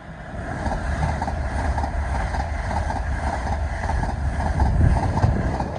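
Passenger train running close past the platform: a loud low rumble with a regular wheel clatter about four times a second.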